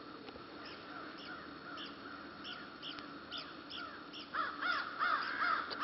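Crows cawing, a run of several harsh caws in quick succession starting about four seconds in, over faint high chirping from other birds.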